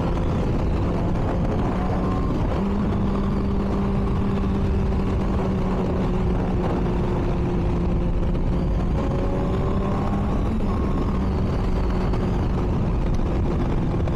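Motorcycle engine running at a steady cruise, its note holding nearly constant with a slight rise about two and a half seconds in, over a heavy rush of wind noise.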